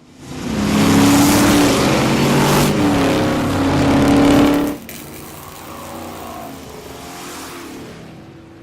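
Camaro Z28's V8 engine revving loudly through a performance dual exhaust, then dropping suddenly to a quieter run just under five seconds in.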